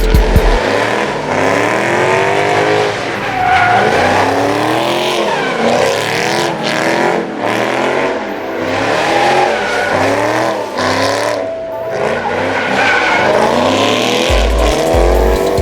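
Car engine revving up and down over and over, hard and fast, with tyres squealing as the car slides in circles.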